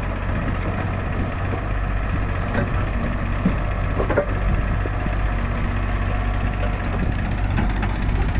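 Hyundai 85 excavator's diesel engine running steadily, with a couple of short knocks about halfway through.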